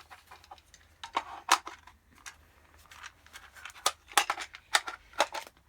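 Scattered sharp clicks and clinks of small hard parts being handled, about half a dozen, the loudest about a second and a half in and a cluster in the last two seconds.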